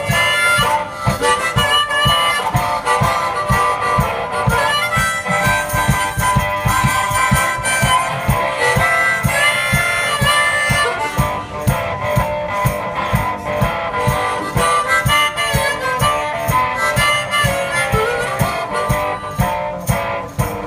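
One-man band playing an instrumental break: harmonica lead over strummed guitar with a steady thumping bass-drum beat.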